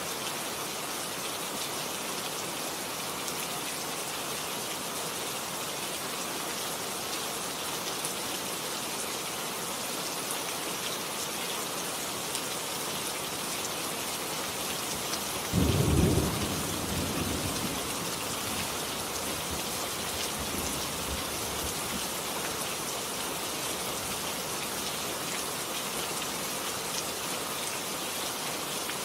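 Steady heavy rain. About halfway through, a sudden loud clap of thunder breaks in and rumbles away over a couple of seconds.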